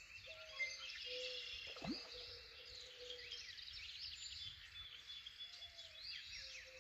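Morning chorus of many wild birds chirping and singing at once, with a low, drawn-out call beneath them in the first half.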